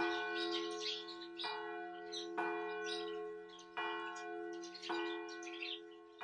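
A bell struck about five times at uneven intervals, each strike ringing on under the next, with birds chirping faintly.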